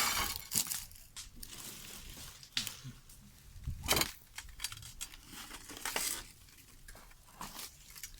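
Cardboard and paper being handled by hand, crumpled and torn in irregular rustling bursts, the loudest near the start and about four and six seconds in.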